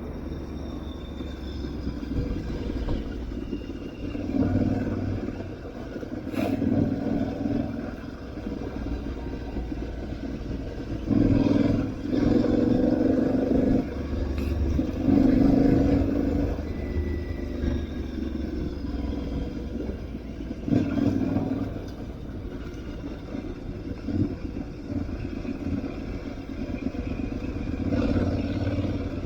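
Aprilia Tuareg 660's parallel-twin engine under way off-road, the throttle opened and closed so that the engine swells in repeated surges over a steady low rumble. The loudest stretch is in the middle.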